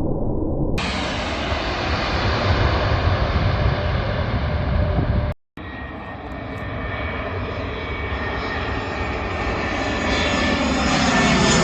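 Airplane engines running loud, with a dense rushing noise. The sound drops out suddenly about five seconds in, then comes back with a few steady high tones and grows louder toward the end.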